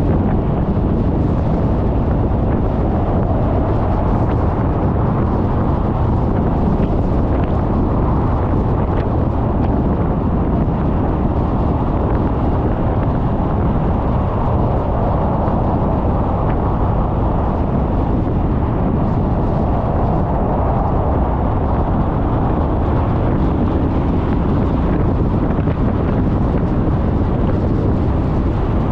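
Steady rush of wind on the microphone, mixed with the road and engine noise of a Suzuki Burgman 400 scooter riding along, unbroken throughout.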